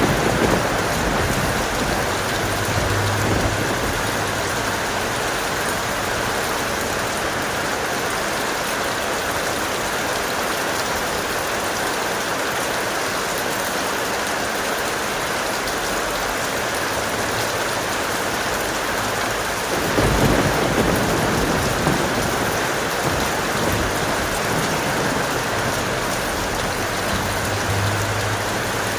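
Heavy rain falling steadily, with rolling thunder rumbling in at the start and again about twenty seconds in.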